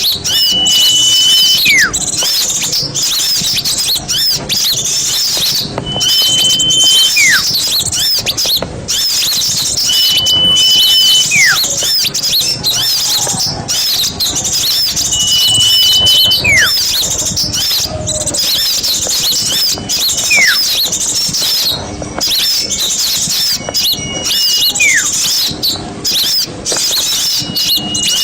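Bird-lure recording of many small songbirds calling at once: dense, high chattering throughout. A clear whistle is held for about a second, then a call slides steeply downward; the pair repeats about every four to five seconds.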